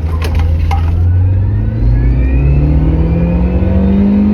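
2003 Acura RSX's 2.0-litre four-cylinder engine revving up under full-throttle acceleration, its pitch climbing steadily toward the redline, heard from inside the cabin.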